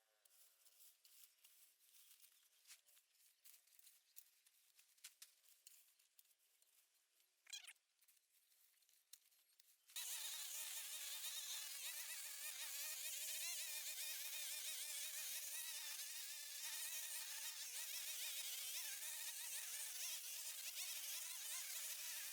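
A small engine running at high speed, a steady high whine with a slightly wavering pitch. It starts abruptly about ten seconds in, after near silence broken only by faint clicks.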